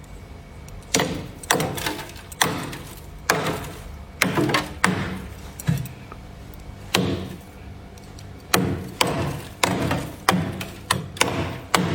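Freezer frost being scraped off with a tool in a series of sharp strokes, each trailing off briefly, coming faster and more regularly in the last few seconds.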